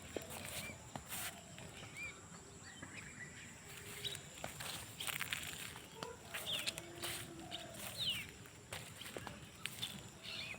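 Outdoor rural ambience: birds giving short calls, some quickly falling in pitch, among scattered clicks and rustles.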